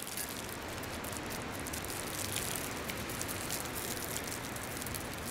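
Steady beach ambience: an even wash of outdoor noise with no distinct events.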